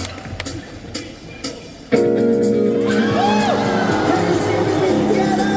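Crowd cheering with scattered whoops, then about two seconds in a live funk band comes in suddenly and loud with held chords.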